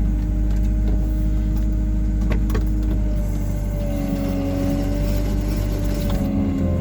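Hyundai R140W-7 wheeled excavator's diesel engine running steadily. A few sharp clicks come a little past two seconds in, and a higher whine joins about halfway through.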